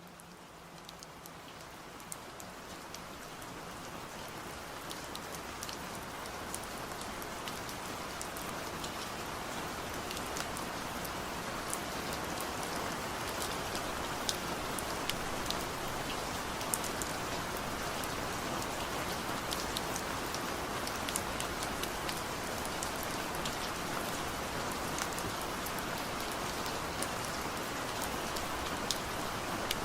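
Steady rain falling, fading in over the first several seconds, with sharp individual drop hits scattered through it.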